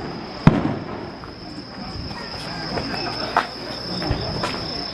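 A sharp firework bang about half a second in, then a few fainter bangs and pops, over a steady high trill of insects.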